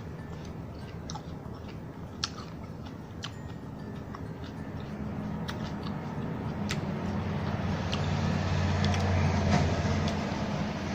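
Close-up chewing of crisp salad: scattered sharp crunches and mouth clicks. A low rumble builds in the second half, at its loudest shortly before the end.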